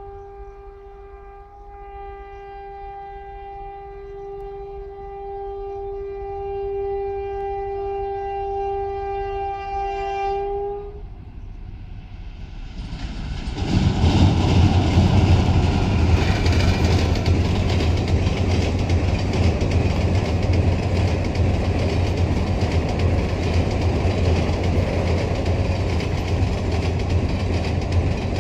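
An Indian Railways passenger train's locomotive horn sounds one long steady blast of about eleven seconds, growing louder as the train approaches. A couple of seconds later the train runs onto the steel truss bridge, and a loud, steady rumble and clatter of wheels on the girders follows.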